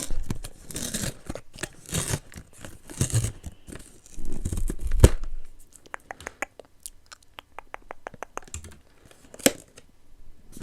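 Cardboard blind box being opened by hand, with tearing, scraping and rustling of the packaging. A sharp snap about five seconds in is the loudest moment, followed by a run of light clicks and taps.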